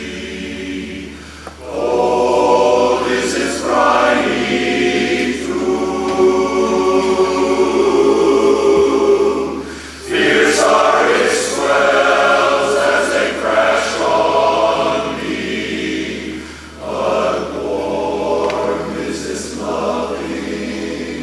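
Male barbershop chorus singing a cappella in close harmony, in sustained phrases with short breaths between them about 1.5, 10 and 16.5 seconds in.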